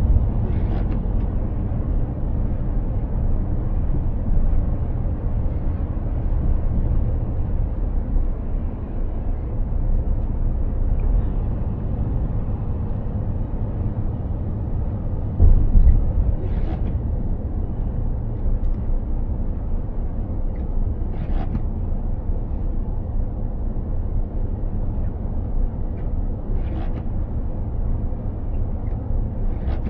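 Mercedes-Benz Actros truck on the move, a steady low rumble of engine and road noise, with one heavier thump about halfway through.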